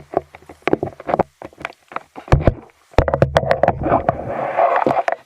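Kayak and fishing gear being handled: a quick run of hard knocks and clatter, then a couple of seconds of rushing noise with a low rumble.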